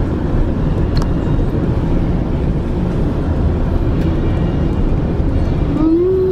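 Steady low rumble of a GO Transit commuter train running, heard from inside the coach, with a few faint clicks. A short whine rises and falls in pitch near the end.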